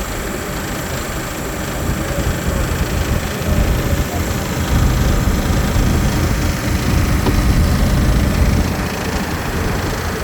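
Steady low rumble of a tour boat's engine under way, growing louder about three and a half seconds in and easing again near the end.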